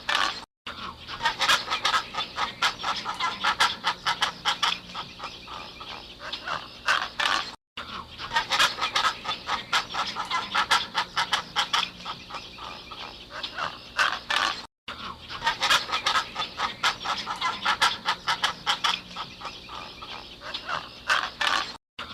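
A flock of birds calling rapidly and continuously, many overlapping calls at once. The same stretch of calling plays about three times over, each time cut by a brief dropout.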